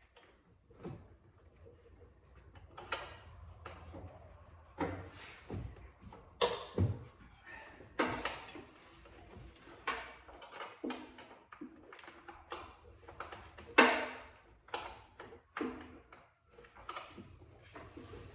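Irregular clicks, knocks and scrapes of hand tools and parts being handled while working on a car's blower motor. One sharp knock, the loudest sound, comes about three-quarters of the way through.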